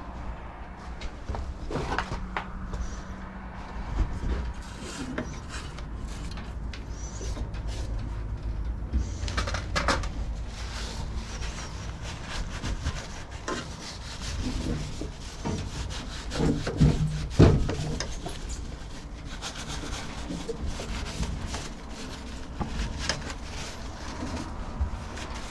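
Hands working on a lawn mower's self-propel drive: parts and tools clicking, knocking and rubbing, with a couple of louder knocks about two-thirds of the way through.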